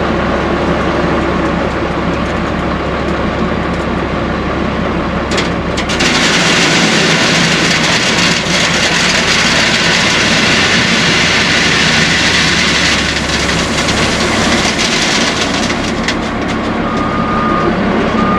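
A heavy engine runs low and steady. About six seconds in, a loud rushing rattle of clear stone pouring from a loader bucket into the dump box starts abruptly and lasts about ten seconds. A short beep comes near the end.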